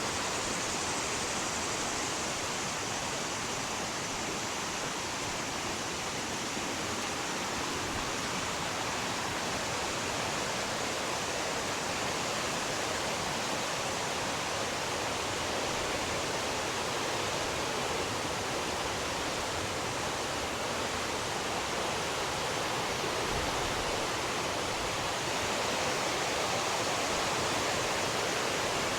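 A fast-flowing mountain river rushing over rocks: a steady, unbroken roar of water.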